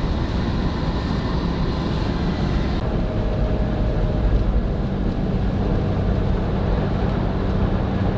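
Toyota Tacoma pickup driving at highway speed: a steady drone of engine and tyre noise.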